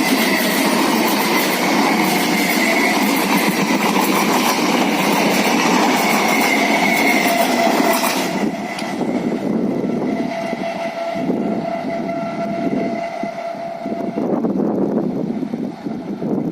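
Electric suburban local train (EMU) running past, loud for the first half, then dropping off about eight seconds in. A steady held tone sounds for a few seconds in the second half.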